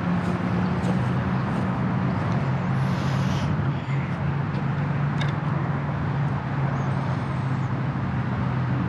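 Steady low motor hum with a continuous drone, like engines or road traffic running, and a few faint clicks over it.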